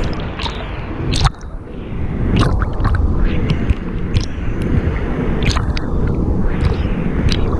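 Wave-pool water sloshing and splashing close to the microphone, with a steady churning rumble and many small sharp splashes and drips.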